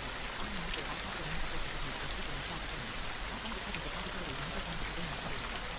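Gentle rain falling steadily, a soft even hiss with scattered drop ticks. A faint, low, wavering murmur runs underneath.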